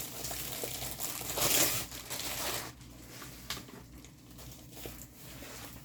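Plastic packaging crinkling as it is handled, loudest about one and a half seconds in, then dropping to faint rustles and a few light clicks.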